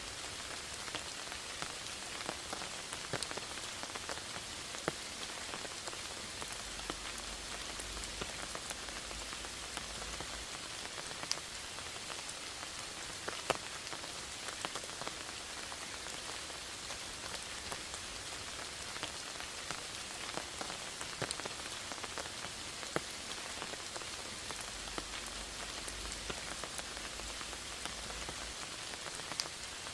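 Steady rain falling in a forest, an even hiss with separate louder drops ticking at irregular moments all through.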